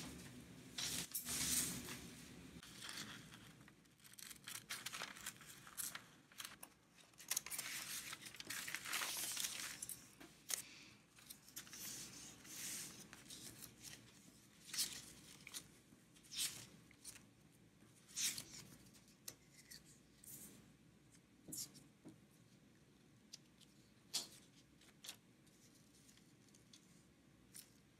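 Scissors cutting a picture out of a sheet of paper. Paper rustles and is handled for about the first ten seconds, then come separate snips every second or two.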